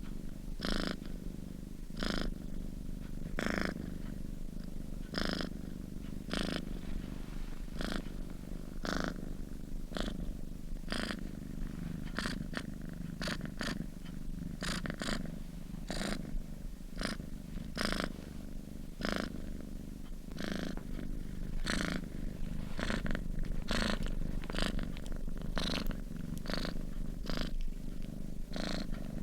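A sleeping domestic cat purring steadily. The low rumble swells into a breathy surge with each breath, about once a second.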